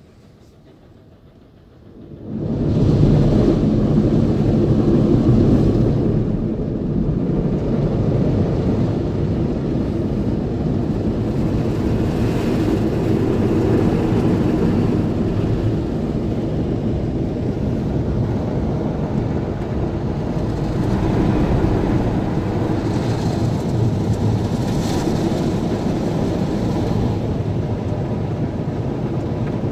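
Automatic car wash's rotating brushes and water spray working over a car. They come on suddenly about two seconds in as a loud, steady, low wash noise with slow swells.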